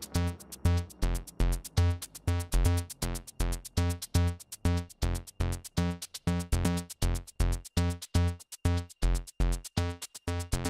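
Electronic dance music with a steady drum-machine kick drum at about two beats a second, sharp percussion hits in between, and synthesizer.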